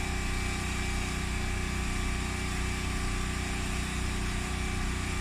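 A steady mechanical hum with a low buzz, unchanging throughout.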